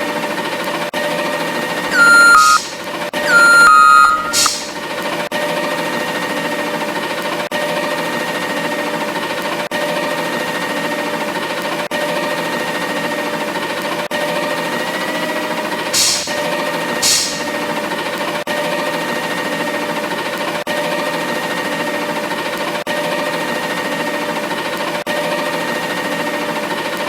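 A steady machine hum made of several held tones, with two loud beeps a few seconds in and two short sharp clacks past the middle.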